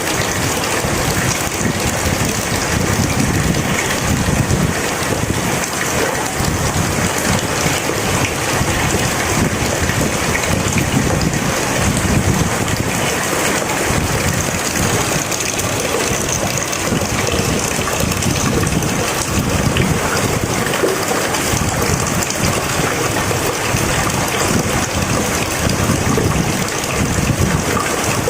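Steady heavy rain falling: a dense, even hiss with no breaks.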